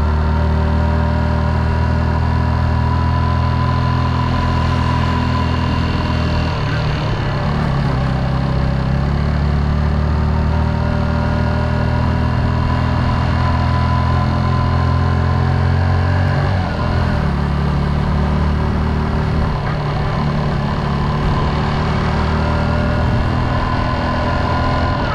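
Motorcycle engine running steadily under way, its note shifting twice, about a third and two-thirds of the way through.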